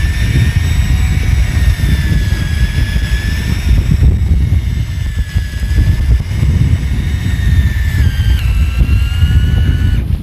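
Heavy wind buffeting the microphone, under a steady high mechanical whine that drifts slowly in pitch, steps down about eight seconds in and stops near the end.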